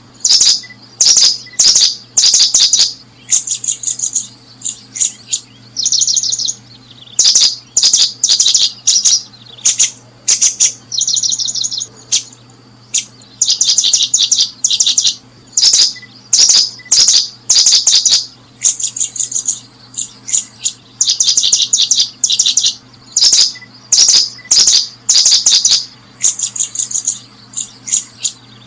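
Small songbirds chirping loudly in repeated bouts of rapid, high, clipped notes, each bout a second or two long with short pauses between, over a faint steady low hum.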